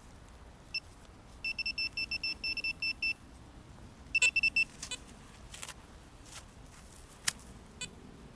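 Metal-detecting pinpointer probe beeping in rapid high-pitched pulses, about five a second, as it sits over a buried metal target, here an old cartridge casing. A second short run of beeps follows, then a few sharp clicks.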